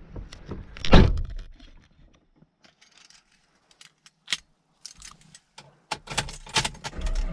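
A single heavy thump about a second in, then scattered light clicks and rattles, with a quick cluster of clicks near the end.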